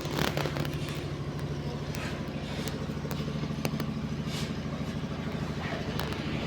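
A small engine running steadily with an even low hum, with a few sharp clicks over it.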